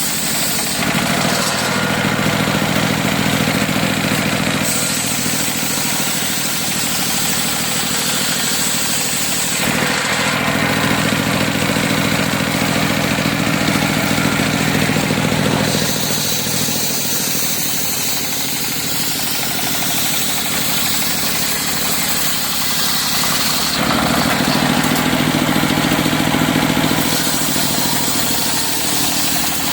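Teak being sawn on an engine-driven circular sawmill (serkel): a steady engine hum under the blade. The sound changes every several seconds as passes of the blade alternate.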